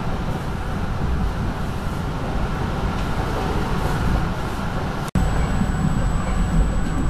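Passenger train running at speed, heard from inside a coach: a steady rumble of wheels on rail. The sound drops out for an instant about five seconds in, and a thin high whine runs along with it after that.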